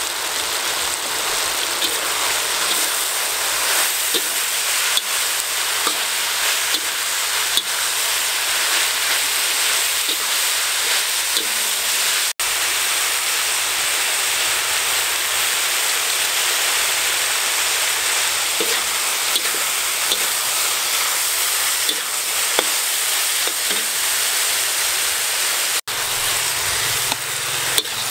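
Sliced winged beans and beef sizzling steadily in a hot wok as they stir-fry, with occasional light clicks of a metal utensil against the wok.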